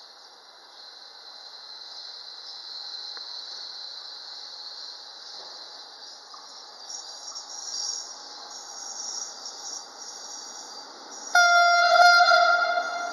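Approaching train, its running noise building as it nears, with thin high squeals from the wheels on the rails. About eleven seconds in, the locomotive sounds its horn loudly, a steady-pitched blast briefly broken in the middle and fading toward the end.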